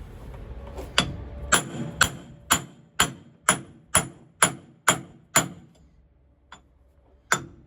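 Hammer striking metal in a steady series of ringing blows, about two a second, during work on a driveshaft center bearing. The blows stop for a moment with one light tap, then start again near the end.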